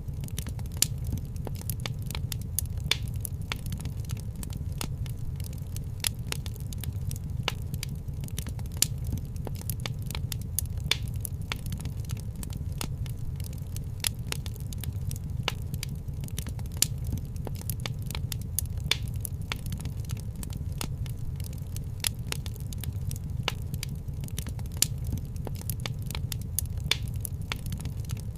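Wood fire crackling in a fireplace: a dense stream of small snaps and pops over a steady low rumble, with a louder pop every couple of seconds.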